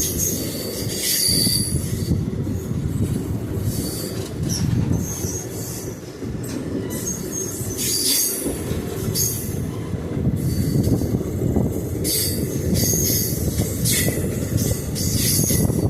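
Moving passenger train heard on board: a steady rumble of wheels on the rails, with repeated brief high-pitched wheel squeals coming and going every second or two.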